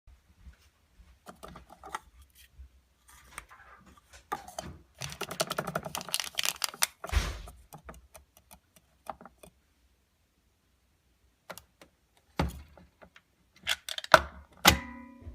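Irregular light clicks and clatter of small hard objects being handled, busiest about halfway through, with a short pitched tone near the end.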